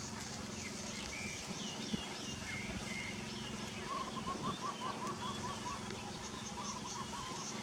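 Birds chirping, with a fast run of repeated notes about halfway through, over a steady low hum.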